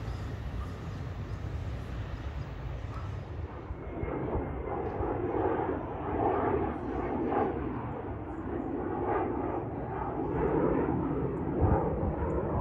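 Small business jet, taken for a Cessna 525, taking off with its twin turbofans running as a steady noise that grows louder about four seconds in.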